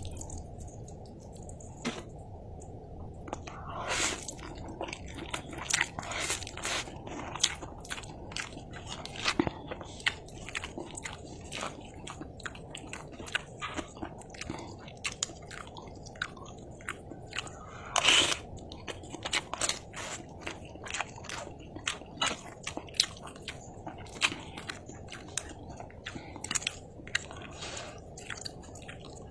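Close-miked mukbang eating of mi goreng (fried instant noodles) with egg and raw chilies: steady chewing with frequent, irregular sharp crunching bites and mouth clicks, the loudest crunch coming a little past the middle.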